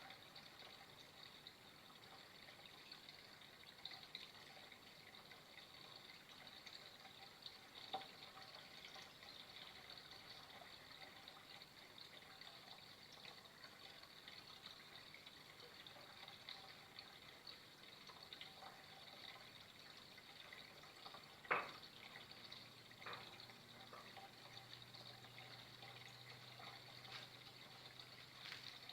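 Faint, steady flowing water, with a couple of sharp ticks, the loudest about two-thirds of the way through.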